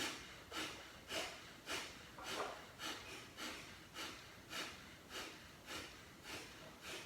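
Kapalbhati pranayama breathing: short, forceful exhalations pushed out through the nose by the stomach, at an even pace of nearly two strokes a second, with quiet passive inhalations between them.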